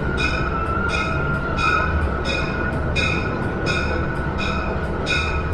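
Budd RDC rail diesel car running, with a steady low rumble, and a bell ringing over and over at a steady pace, about one stroke every 0.7 seconds.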